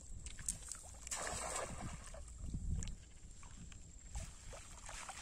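Water sloshing and splashing around a small boat, with scattered light knocks.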